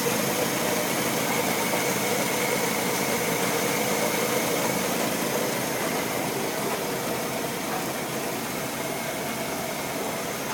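1969 Land Rover Series II engine idling steadily, running again after sitting unused for eleven years. It gets a little quieter about halfway through.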